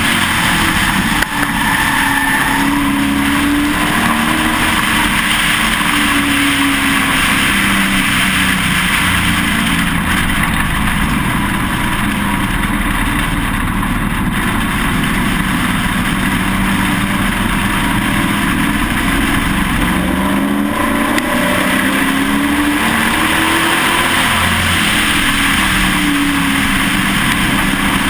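Pro Truck racing truck's engine heard onboard at race speed, running loud and continuously, its pitch rising and falling every few seconds as it accelerates and eases off.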